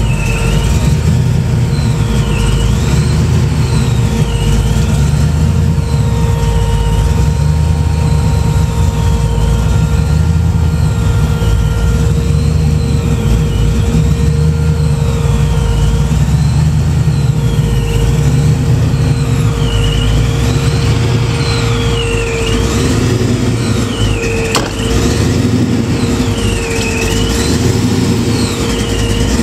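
1993 Ford Mustang LX pro-street drag car's engine idling, loud and steady.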